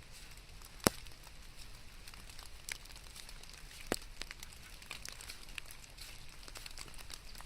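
Rain ambience: a steady hiss with scattered drops ticking irregularly, and two sharper clicks, one about a second in and one about four seconds in.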